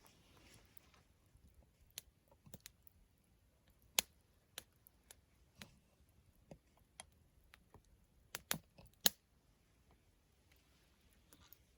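Wood campfire crackling: sparse, irregular sharp pops and snaps from the burning wood. The loudest pop comes about four seconds in, and a quick cluster follows near the end.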